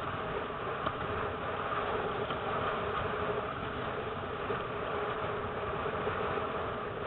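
Steady rushing wind and water noise on a windsurfer's camera in strong, gusty wind, with no pauses.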